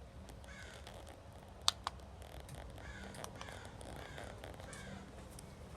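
Faint bird calls repeating about every half-second to second, harsh and arching, over a steady low hum and rumble from the running outdoor ceiling fan. Two sharp clicks about a second and a half in.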